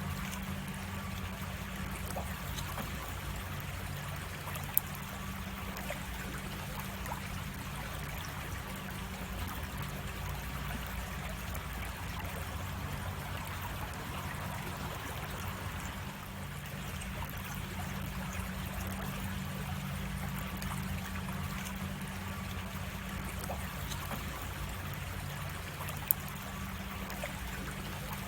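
Creek water running and trickling steadily over a small cascade. Two sharp clicks cut through, about five seconds in and near the end.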